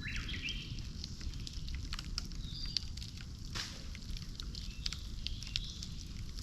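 Bonfire crackling, with many sharp irregular snaps and pops over a low steady rumble. A few short high chirps sound near the start.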